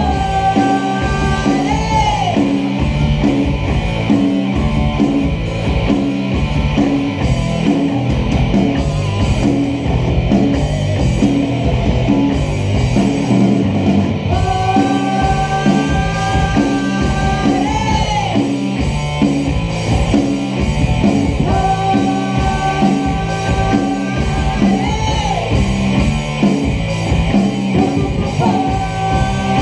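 Live rock band playing loud, with drums, bass, guitar and vocals; a held high note that bends at its end returns several times over the steady beat.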